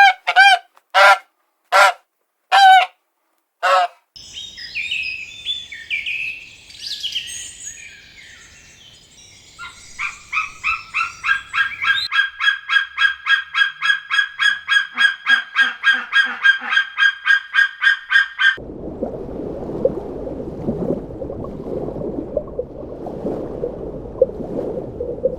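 Farm birds calling. Six short pitched calls come in the first four seconds, followed by a jumble of high chirping. Then a fast run of repeated calls, about four a second, lasts around eight seconds, and a steady noise takes over for the last seven seconds.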